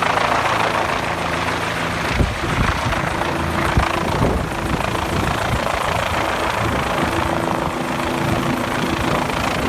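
A rescue helicopter's rotors and engine run steadily close by, in a dense whooshing din, with a few low thumps about two and four seconds in.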